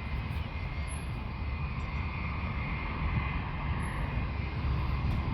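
Aircraft engines running steadily as a plane moves along the airfield: a low rumble with a thin, steady high whine over it.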